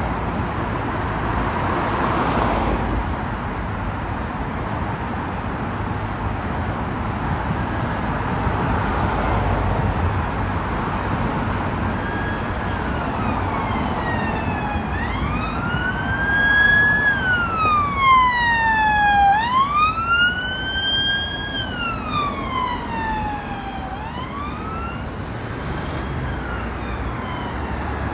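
Road traffic, with a vehicle passing close early on. About halfway through, an emergency vehicle's wail siren comes in, its pitch sweeping slowly up and down every couple of seconds. It grows loudest about two-thirds of the way in, then fades near the end.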